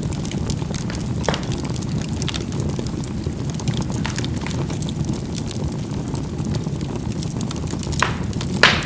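Charcoal burning in a fireplace: a steady low rumble of fire with scattered crackles and sharp pops, the loudest two near the end.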